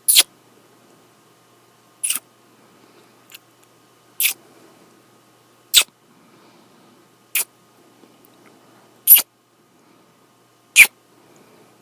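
Close-up kisses: seven short, sharp lip smacks, about one every one and a half to two seconds.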